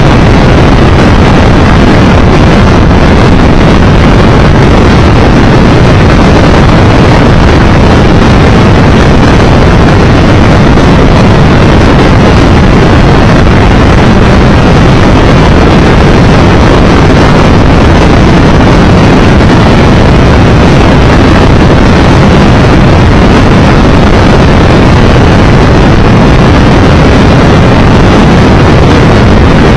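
Steady, loud wind noise on the microphone of a Triumph Tiger Explorer 1200 motorcycle riding at road speed, with the bike's engine and road noise blended underneath.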